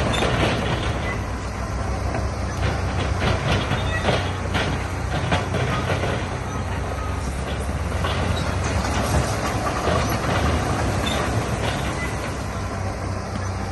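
Bulldozer's diesel engine running steadily with a low rumble, with repeated clanks and rattles of metal and rock over it.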